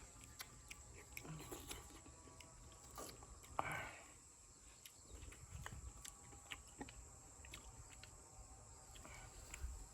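Near silence: quiet outdoor ambience with a few faint scattered clicks and a brief rustle about three and a half seconds in.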